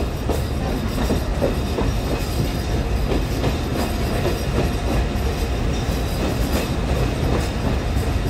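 Narrow-gauge Alishan Forest Railway hinoki-wood passenger train running along the track, heard from the carriage window: a steady rumble of wheels on rail with scattered clicks and knocks.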